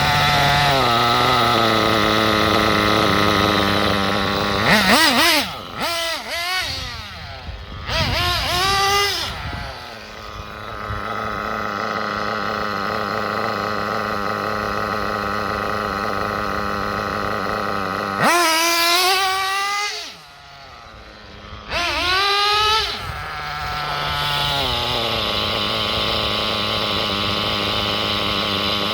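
RB .21 nitro engine of a Kyosho MP10 buggy idling steadily with a buzzing whine, blipped up in revs several times: about five seconds in, around eight to nine seconds, and twice more between eighteen and twenty-three seconds, briefly falling quieter after the third rev. The engine is being tuned from its break-in setting toward a single, stable idle.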